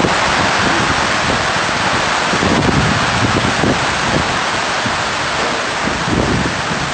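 Heavy rain pouring steadily onto a flooded stone courtyard, with gusts of wind rumbling on the microphone.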